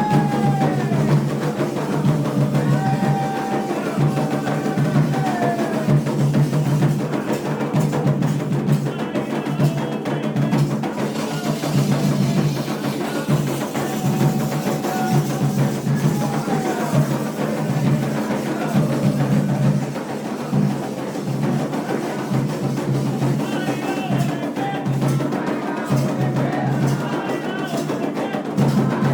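Candomblé ritual drumming, a steady beat on hand drums with a bright percussive tapping, and a few long sung notes over it.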